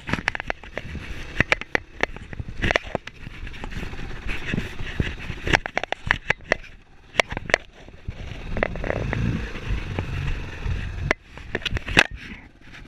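Irregular sharp knocks and clicks over scraping and a low rumble, with no steady engine note.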